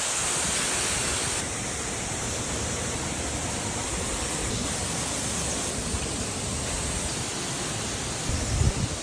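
River water rushing steadily, its level shifting slightly a few times, with a few low thuds near the end.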